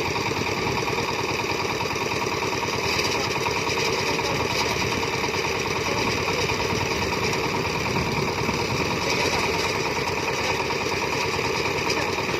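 Farm machine engine running steadily with a fast, even chugging beat.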